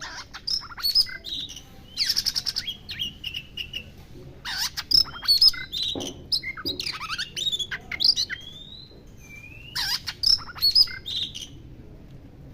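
Oriental magpie-robin singing in four bouts of harsh, rasping notes mixed with short whistled glides, with brief pauses between the bouts.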